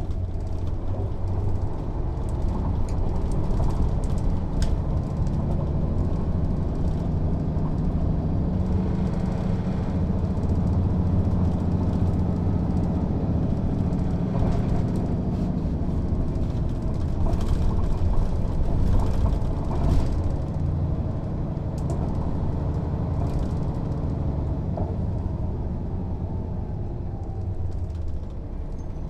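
Mercedes-Benz O 407 city bus's diesel engine running under way, its note rising and falling gently, with scattered clicks and rattles; it eases off near the end.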